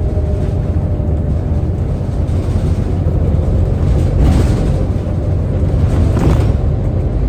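Scania N230UD double-decker bus running under way: a steady low engine rumble with a faint steady whine above it. Two brief noisy swells come about four and six seconds in.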